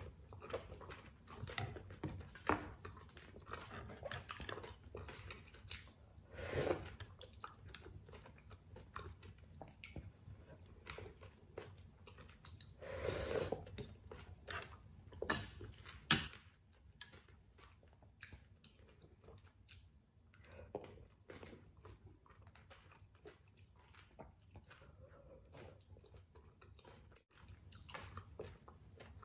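A person chewing and biting a mouthful of seafood ramen, with many small wet mouth clicks. There are a few longer, louder sounds about 7 and 13 seconds in, and the chewing grows quieter in the second half.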